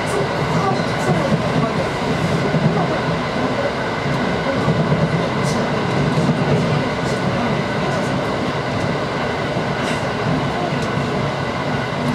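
Aoimori Railway 701 series electric train running along the line, heard from inside its rear cab: steady rolling noise with a faint steady whine and occasional light clicks.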